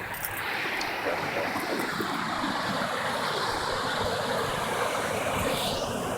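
Steady rush of water pouring over a drop, a constant even roar with no pauses.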